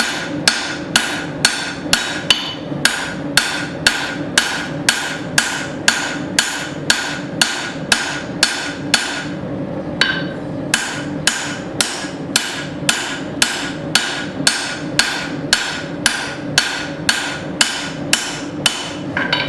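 Three-pound hand hammer striking a mild steel bar on an anvil in steady forging blows, about two a second, each with a short metallic ring. There is a brief pause about halfway through, and a steady hum runs underneath.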